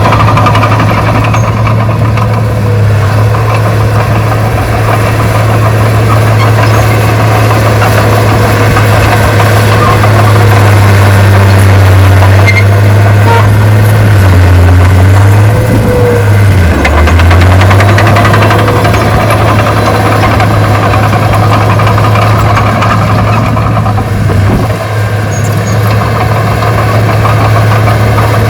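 Heavy earthmoving machine's diesel engine running with a loud, steady low drone, its pitch dipping briefly about halfway through.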